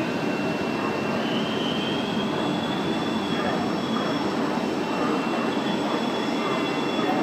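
Frecciabianca passenger train moving through the station, a steady rumbling rush of wheels on rail, with a faint high-pitched squeal that rises about a second in and holds for a few seconds.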